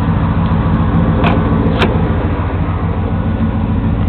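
1993 Chevy Silverado's 5.7-litre 350 V8 idling steadily, warming up after a cold start, with two light ticks about a second and a half in.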